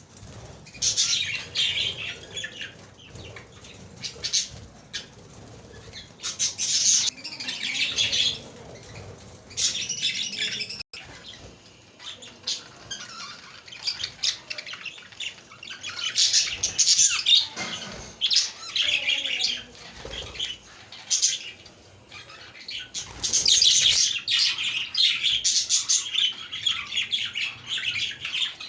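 A flock of budgerigars chirping and warbling, in bouts of rapid, dense chatter with short lulls between.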